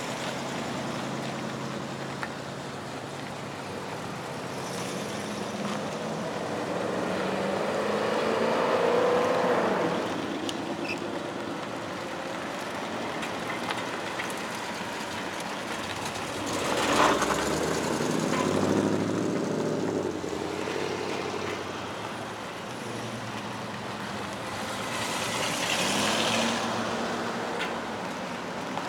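Classic American cars' engines running as the cars pull away one after another. Each engine note rises as a car accelerates past, with louder pass-bys about a third of the way in, a sharp loud peak a little past halfway, and another near the end.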